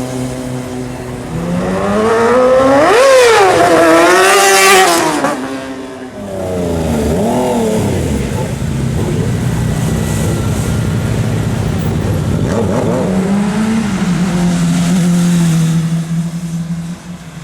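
Sport motorcycle engine revved hard, the pitch climbing and falling several times in quick succession, then blipped more lightly twice and held at a steady pitch before dying away near the end.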